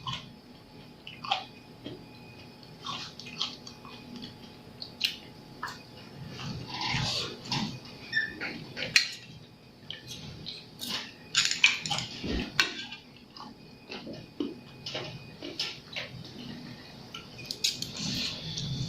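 Close-miked eating of seafood papaya salad: wet chewing and slurping of squid, cockles and dressing, with occasional clicks of cutlery on a dish.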